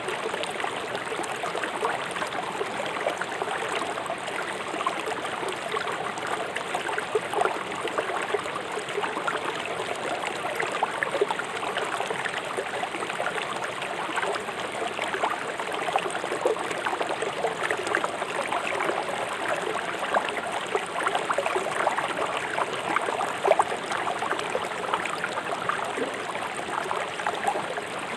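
River water flowing swiftly over stones, a steady rushing with constant small splashes and gurgles.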